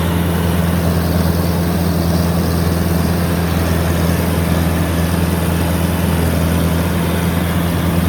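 Rice combine harvester's diesel engine running steadily as it harvests, a constant low hum with no change in pitch.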